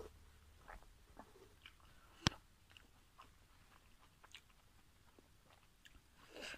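Soft chewing and wet mouth clicks from eating a steamed pork momo dumpling, with one sharp click a little over two seconds in.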